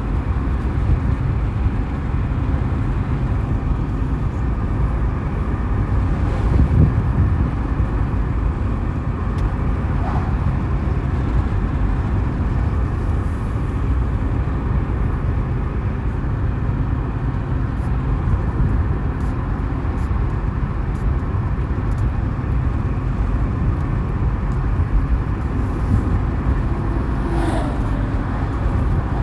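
Steady low mechanical rumble, like an engine or vehicle running, holding even throughout with no clear changes.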